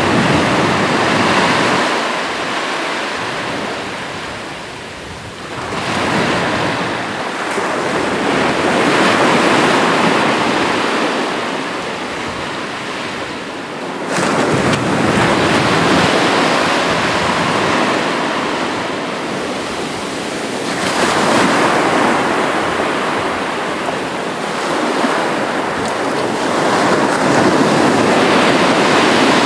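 Sea waves breaking and washing in, the surf swelling and easing in surges every six to eight seconds, with one wave breaking suddenly about halfway through.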